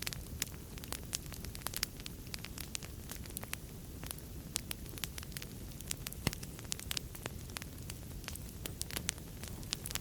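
Wood fire burning in a fireplace: a steady low rush of flames with many irregular sharp crackles and pops, one louder pop about six seconds in.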